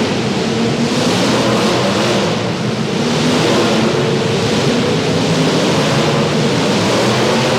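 Several demolition derby cars' engines running loudly together, a dense, steady rumble with a noisy rush over it and no single crash standing out.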